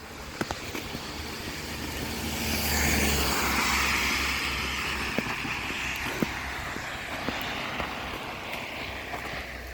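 A car passing on a wet road: its tyre hiss and engine rumble swell about three seconds in, then slowly fade as it moves away. Footsteps click faintly throughout.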